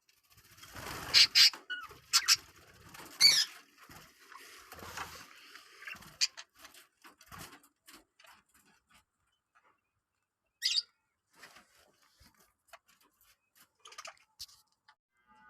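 Lovebirds giving short, sharp, high-pitched chirps: several loud ones in the first few seconds and another about two-thirds of the way through, with scattered faint clicks and scratching between.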